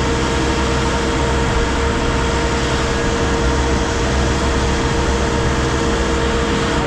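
Heavy diesel machinery running steadily under load, a loud constant drone with a steady whine over it.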